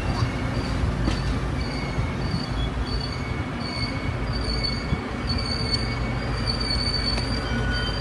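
Metra bi-level commuter cars rolling past with a steady rumble of wheels on rail. A high, on-and-off wheel squeal grows stronger in the second half.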